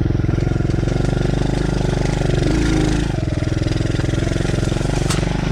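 TaoTao DB14 110cc dirt bike's small single-cylinder four-stroke engine running steadily at low, even revs.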